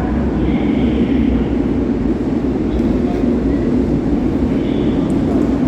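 A train at a station platform, running with a steady low rumble.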